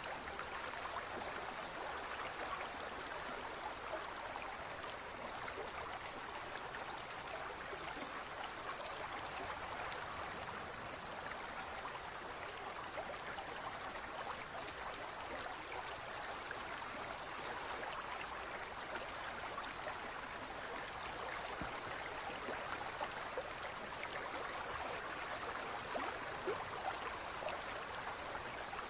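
Water flowing steadily, a continuous stream-like trickle and splash with fine droplet detail.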